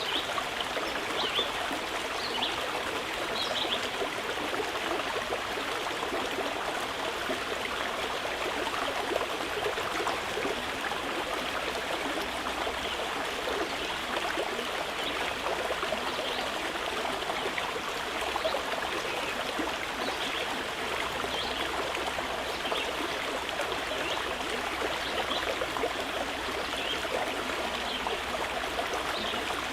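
Mountain river flowing steadily, an even rushing and burbling of water, with faint short bird chirps here and there.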